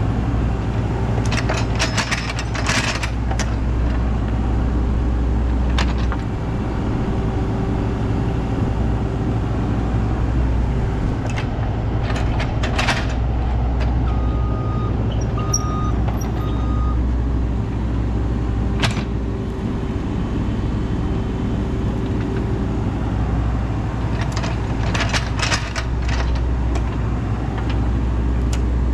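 Cat excavator's diesel engine running steadily while digging a trench. Bucket clanks and scrapes come in several short clusters over the engine.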